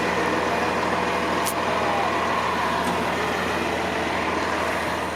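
Heavy diesel engine of a crane truck running steadily at idle, a low even drone. A single sharp click about a second and a half in.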